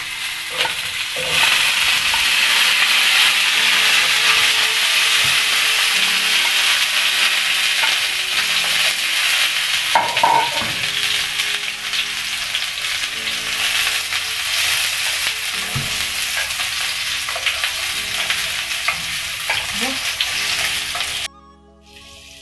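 Pre-boiled potato chunks frying in hot oil in a pan: a loud, steady sizzle that swells about a second in as more potatoes go into the oil, with a few soft knocks as they are moved about with a wooden spoon. The sizzle cuts off suddenly near the end.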